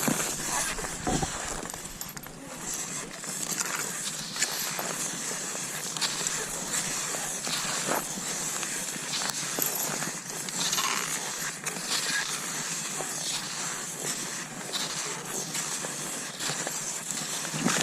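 Cross-country skis sliding over snow in strides, with a sharp crunch every second or two.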